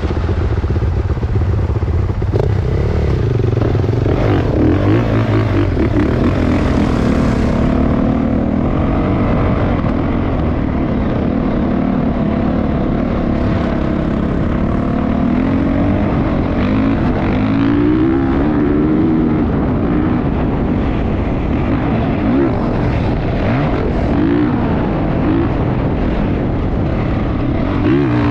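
Motocross bike engine running and revving, its pitch rising and falling again and again over a steady low rumble.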